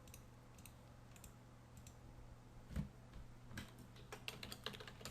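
Faint, scattered clicks of a computer keyboard being typed on, coming more often in the second half.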